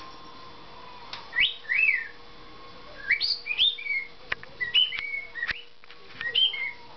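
Cockatiel whistling a string of short whistled notes that glide up and down in pitch. It opens with a rising note followed by a rise-and-fall, like a wolf whistle, with a few sharp clicks in between.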